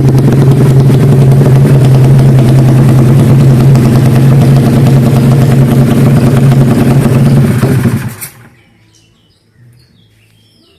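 Honda Karisma motorcycle engine, bored up to 160 cc, running loud and steady at a constant speed, then switched off about eight seconds in.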